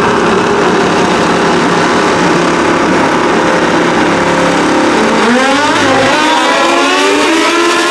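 Two drag-racing motorcycles running a pass at full throttle, a loud, dense engine noise. About five seconds in it thins into several rising, whining engine tones.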